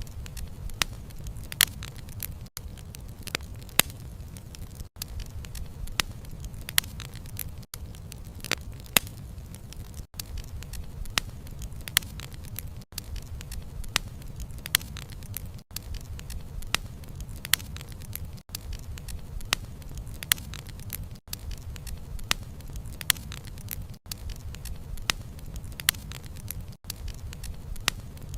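Wood fire crackling: sharp pops and snaps several times a second over a steady low rumble of the flames, with a brief dropout in the sound every few seconds.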